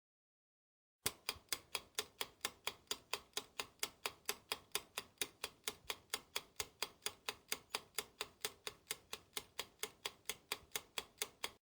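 Clock-style ticking timer sound effect, even sharp ticks about four a second, starting about a second in.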